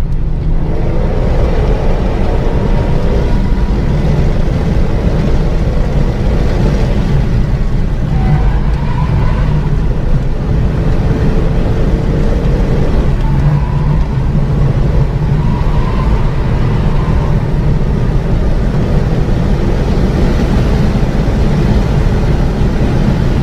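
Renault Mégane 3 RS's turbocharged 2.0-litre four-cylinder engine running at speed, heard from inside the car over a steady loud rumble of road and wind noise.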